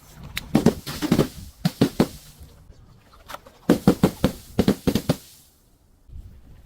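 Something crunchy being crushed: two runs of rapid, sharp cracking and crunching, the first in the opening two seconds and the second about four to five seconds in.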